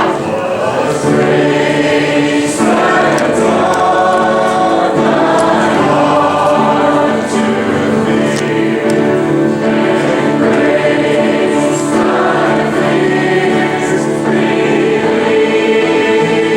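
A choir singing a Christian song, with sustained chords that run on without a break.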